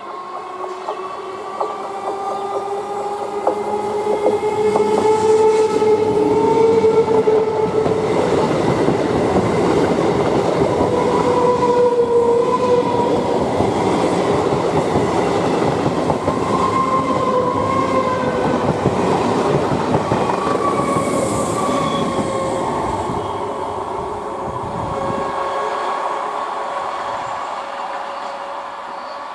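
Electric multiple-unit (EMU) local train passing close: a whine that rises slowly in pitch as the train approaches, then a long loud rush and rattle of coach wheels on the rails, fading near the end.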